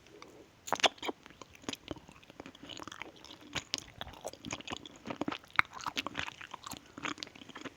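Mouth sounds of someone chewing the soft gelatin pieces of a Mogu Mogu melon-coconut drink. They come as a dense, irregular run of wet clicks and smacks.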